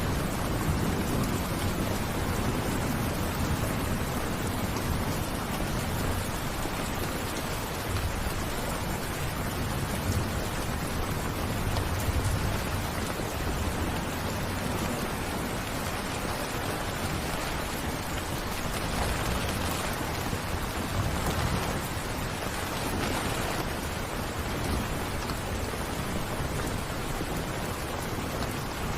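Steady rain falling, an even hiss of drops, with a low rumble swelling and fading underneath at times.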